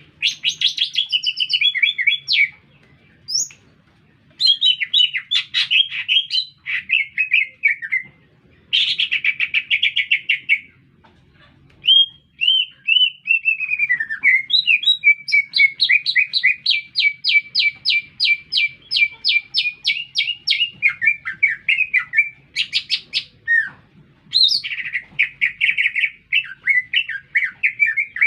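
Green leafbird (cucak ijo) singing vigorously: a varied, continuous run of whistled and chattering phrases and trills, broken by two short pauses, with a long series of fast repeated notes, about four a second, in the middle.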